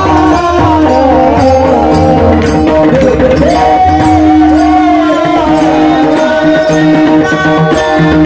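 Devotional singing: a wordless alap, its voice line gliding and curling in long ornamented phrases over a steady held drone, with percussion keeping time throughout.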